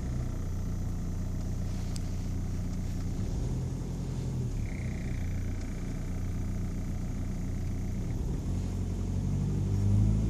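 1.9 TDI Pumpe-Düse four-cylinder diesel (AVF) running steadily with a noisy ticking that began after its pump-injectors were replaced.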